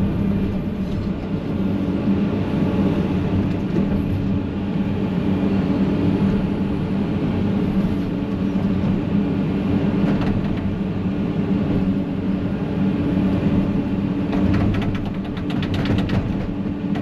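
Excavator's diesel engine running steadily under load with the hydraulics working, as the machine pries at a stump that won't come loose. A quick run of rattling clicks comes near the end.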